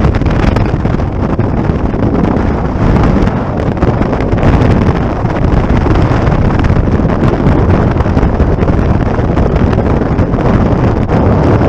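Heavy wind buffeting the microphone while riding on a moving motorcycle, with vehicle and road noise underneath.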